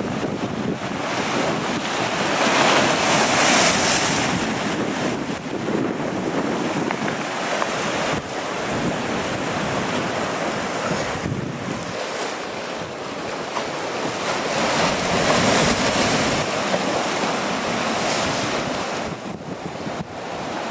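Strong gusting wind buffeting the microphone, over the steady rush of ocean surf. The gusts swell louder about three seconds in and again around fifteen seconds in.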